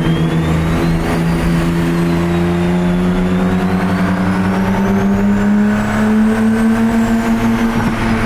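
Car engine running under light load while driving, its steady note rising slowly in pitch as the car gains speed.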